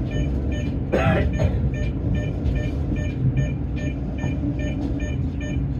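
Steady low rumble of a Tōyō Rapid Railway train, with a short electronic beep repeating about three times a second. A brief sharp burst of sound comes about a second in.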